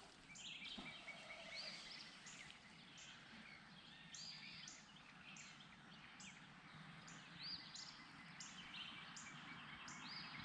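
Faint chorus of small birds chirping, many short high notes overlapping over a soft outdoor hiss.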